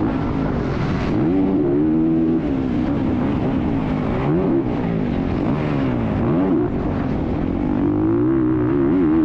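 Dirt bike engine under load, revving up and dropping back over and over as the throttle is worked and gears change, with a few short dips where the pitch falls away.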